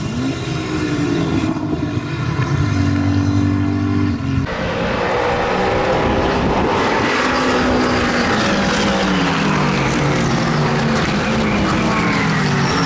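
McLaren 720S GT3 race car's twin-turbo V8 running hard on track, its pitch climbing and dropping through gear changes. About four and a half seconds in, the sound cuts to a louder pass with several falling sweeps in pitch as the car shifts and goes by.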